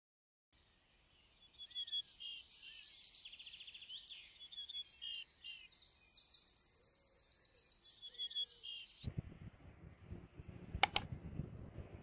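A songbird singing a rapid, varied series of high trills and chirps. About nine seconds in this gives way to low outdoor rumble with fainter chirps, and a single sharp click near the end.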